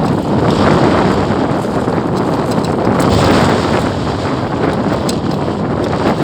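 Strong wind blowing across the microphone, a loud steady rush of noise.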